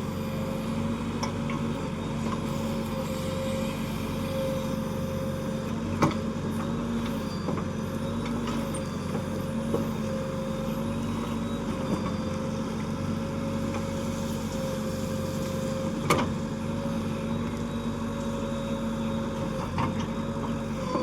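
Diesel engine of a JCB 3DX backhoe loader running steadily at an even pitch, with a few sharp knocks over it, the loudest about six and sixteen seconds in.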